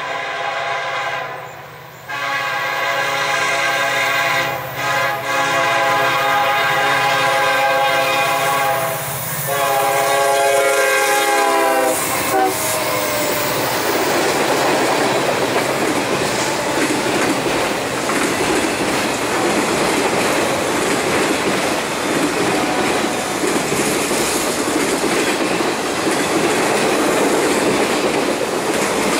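Freight-train locomotive horn blowing several long blasts as the train approaches, its pitch falling as the locomotives pass about twelve seconds in. Then the freight cars, tank cars and autoracks, roll by with a steady rumble and clatter of wheels on the rails.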